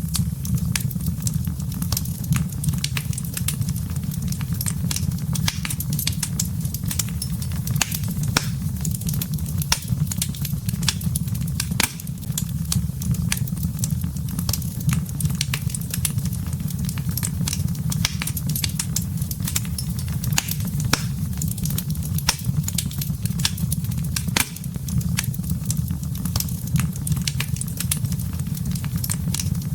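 Wood campfire burning: a steady low rumble of flames under frequent, irregular sharp crackles and pops from the burning wood.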